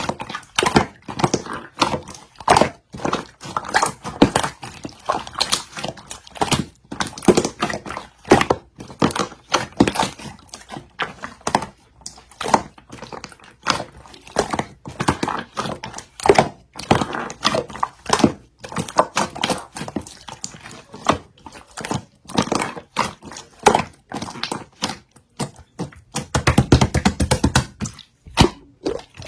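Slime being squeezed and poked by hand: an irregular stream of sticky clicks and small pops. A denser, louder squishing cluster comes near the end.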